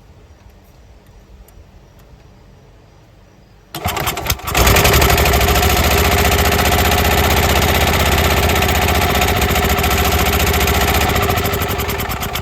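Gas golf cart engine starting up about four seconds in, stuttering briefly, then running loud and steady at throttle before easing off near the end. It is running short of power: the owner has it at full throttle and it is only putting along, and he suspects someone has been messing with the adjustment screw.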